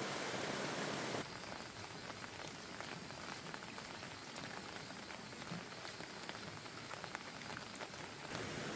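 Steady rain falling, with many scattered drops ticking on nearby surfaces. A louder, denser rush of rain plays for about the first second, changes suddenly, and comes back just before the end.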